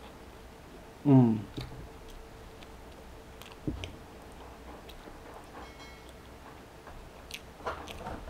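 Close-up chewing of a flaky cream-cheese pastry: faint, scattered wet mouth clicks and smacks, with an "mmm" of enjoyment about a second in that falls in pitch and is the loudest sound. A single dull thump comes a few seconds in.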